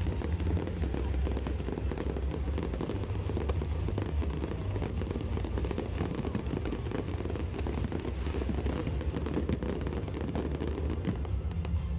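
Aerial fireworks going off in a dense barrage, many rapid crackles and pops over a low rumble of booms.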